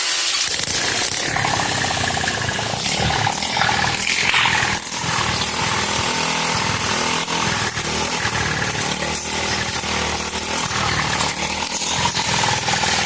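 Small engine of a dual-mode petrol/compressed-air project rig running steadily; its low running sound comes in right at the start.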